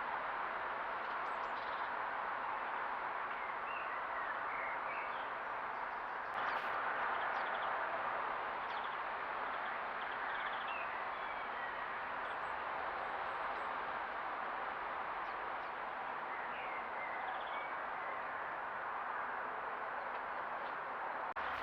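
Small garden songbirds chirping and trilling faintly in short scattered calls over a steady hiss. A single sharp click about a third of the way in.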